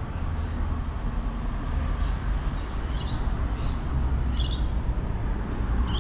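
A bird calling in short, repeated chirps, about one every second, louder near the end, over a steady low background rumble.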